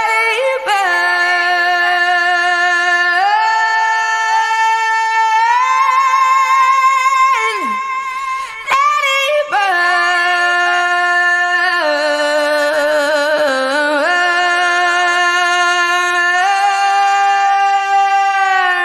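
A woman singing unaccompanied: long held notes that step up and down in pitch, broken by quick wavering runs about eight seconds in and again around twelve to fourteen seconds.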